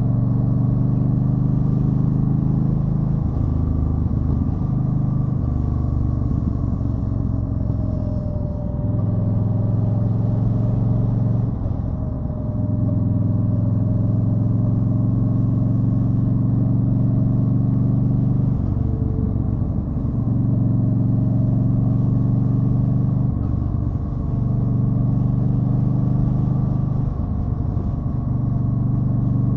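Yamaha Stryker's V-twin engine running under way on a ride. Its steady low note breaks and resettles briefly several times, every few seconds.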